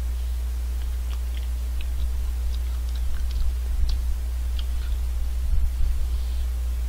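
Biting and chewing into the chocolate-and-almond coated top of a vanilla almond ice cream cone, with small crisp crackles for the first few seconds. A steady low electrical hum runs under it.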